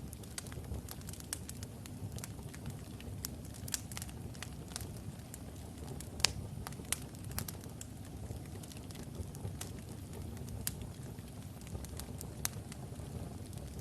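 Wood fire of burning logs in a fireplace: a low steady rumble of flame with frequent sharp crackles and pops, the loudest pop a little after six seconds in.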